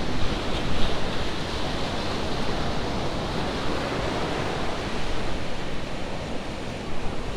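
Steady wash of ocean surf on the beach, with wind rumbling on the microphone.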